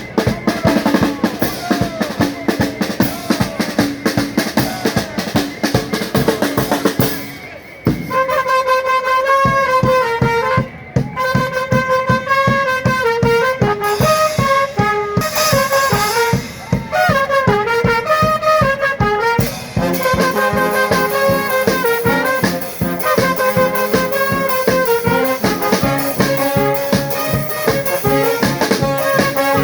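Charanga street band playing: drums and snare for the first several seconds, then, after a short break about 7 seconds in, trumpets and other brass play a melody over a steady drum beat.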